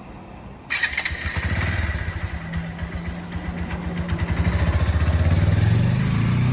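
Motorcycle engine starting up suddenly about a second in and then running with a low, rapid pulsing beat, its pitch and level rising gradually in the second half as it is revved up.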